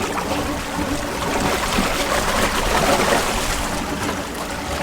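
Water rushing and splashing along the hull of a sailboat under way, with a faint steady hum underneath.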